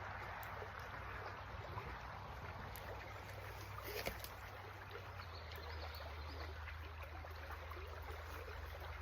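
Creek water running steadily, with a low steady hum underneath and a few faint clicks, the clearest about four seconds in.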